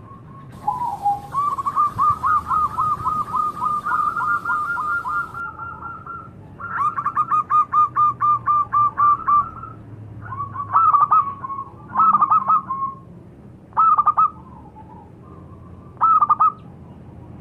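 Zebra dove (local perkutut) cooing: two long runs of rapid staccato coo notes in the first half, then short phrases repeated about every two seconds.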